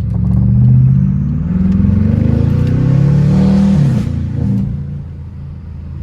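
BMW 550i twin-turbo V8, with catless downpipes and a straight-piped exhaust, accelerating hard. The engine note rises, shifts about a second and a half in, climbs again, then falls away as the throttle closes about four seconds in.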